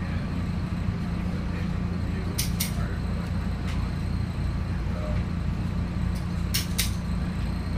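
Cabin noise of a SEPTA Silverliner IV electric multiple-unit car running at speed: a steady low rumble and hum of the wheels on the rails. Twice, a pair of sharp clicks sounds in quick succession.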